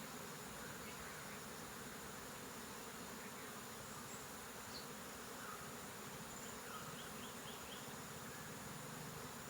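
Many bees buzzing together in a steady, unbroken drone.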